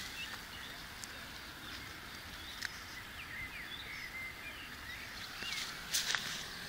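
Small birds chirping faintly in short, scattered calls over a steady outdoor background hiss. Near the end, footsteps rustle through grass.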